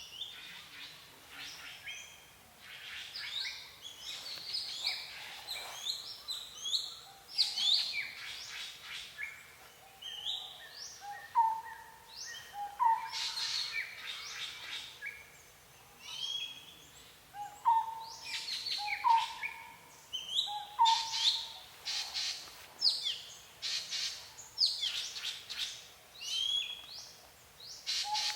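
Several wild birds singing and chirping at once, with many overlapping high whistles and trills. From about a third of the way in, a lower, short rising call repeats again and again beneath them.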